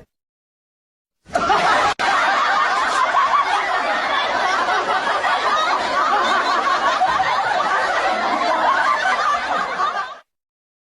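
Many voices laughing and snickering together, like a crowd laughter track. It cuts in abruptly about a second in, drops out for an instant just after, and stops sharply near the end.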